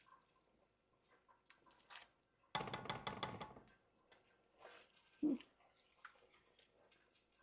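Kitchen utensil and cookware handling: light clicks and taps, a sudden clatter about a second long near the middle, and a short dull knock a couple of seconds later.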